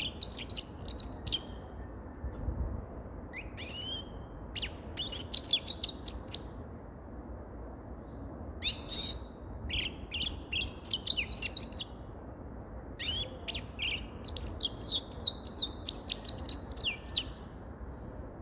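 Grey-headed goldfinch singing: bouts of rapid, high twittering notes lasting from under a second to several seconds, separated by short pauses, over a steady low hiss.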